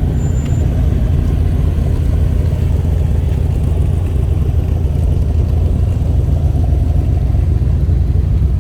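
Car engines rumbling steadily as show cars drive slowly past.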